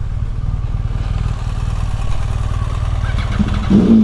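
Motorcycle engine running at low revs, then revving up and pulling away near the end.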